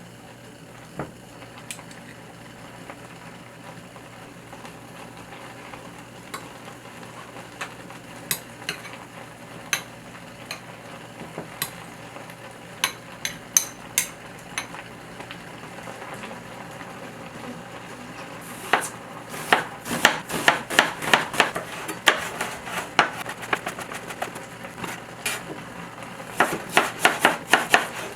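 Food cooking in a pan with a steady low sizzle and scattered sharp taps of a utensil. About two-thirds of the way through, a fast run of sharp strokes begins, several a second, from a spatula working the pan or a knife on a cutting board.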